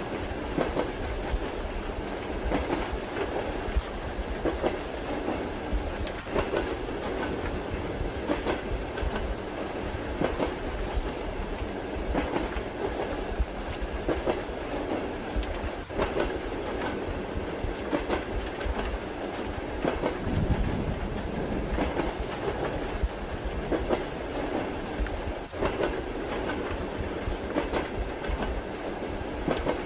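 Moving train heard from inside a carriage: a steady rumble with the wheels clacking over rail joints, mixed with the hiss of rain.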